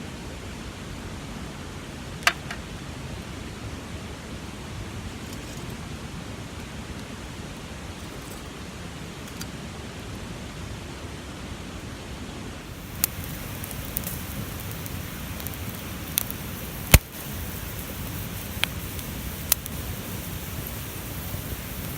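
Campfire burning, a steady rush with scattered sharp crackles and pops, fed with dry leaves. The pops come more often in the second half, the loudest about seventeen seconds in.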